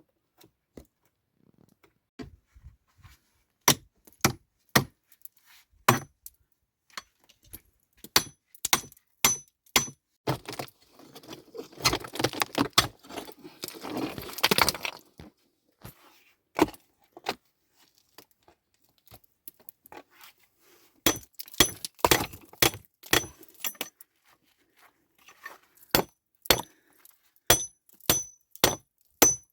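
Stones knocking and clinking against one another in irregular, sharp knocks, some with a brief high ring. There is a stretch of scraping and rustling about a third of the way in.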